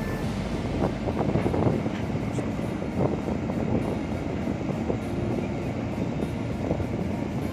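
Steady low mechanical rumble, with irregular short knocks scattered through it.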